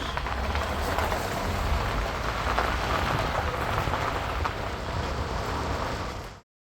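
Steady low rumble and rushing noise of a vehicle driving on the road, which cuts off abruptly near the end.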